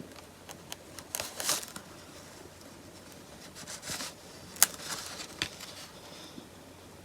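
Close-up handling of a paper droid sticker and a small plastic action figure: scattered light rustles of the sticker and a few sharp little clicks, the sharpest about four and a half seconds in.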